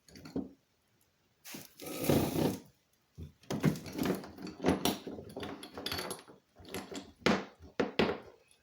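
Objects being handled on a work surface: a rustling, sliding noise lasting about a second near the start, then a run of irregular knocks and clatter, like plastic containers and parts being moved and set down.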